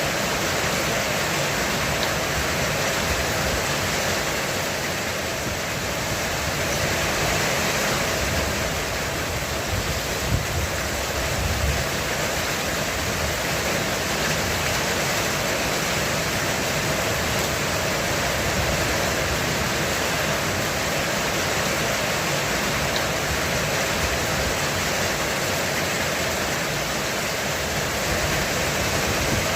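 Heavy rain pounding on a roof in a steady, dense hiss. A low rumble of thunder swells briefly about ten seconds in.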